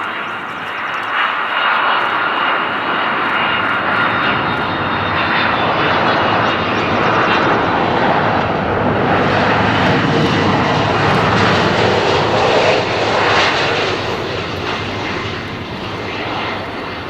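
Airliner's jet engines passing by: a steady whine with broad engine noise that grows louder to a peak about two-thirds of the way through, then fades.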